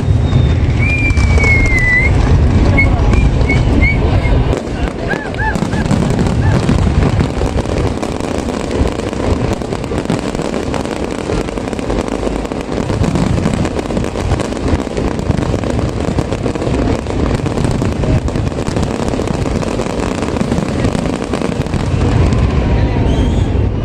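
Crowd of spectators chattering indistinctly outdoors, over a steady low rumble, with a short whistle about a second in.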